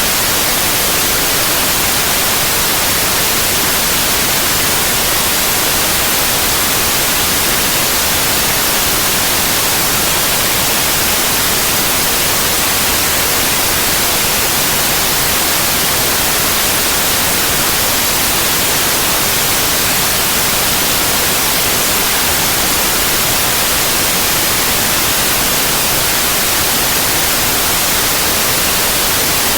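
Steady, loud white noise: an even, unchanging hiss spread across the whole range.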